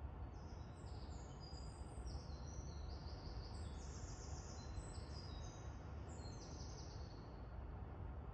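Several birds calling in a dense run of short, high-pitched notes at many different pitches, which fade out near the end, over a steady low background rumble.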